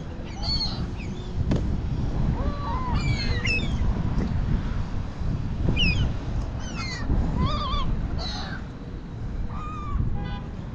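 A flock of gulls calling over and over, many short, rising and falling squawks overlapping from several birds, over a steady low rumble.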